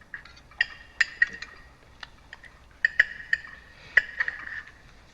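Cutlery clinking against china plates: about a dozen irregular sharp clinks, each with a brief ring.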